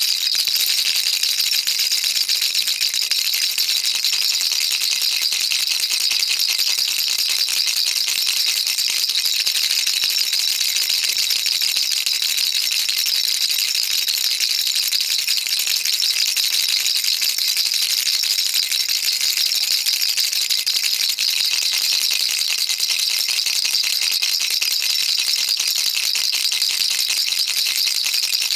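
Baby rattle shaken continuously, its small beads clattering in a fast, unbroken stream of fine high-pitched clicks.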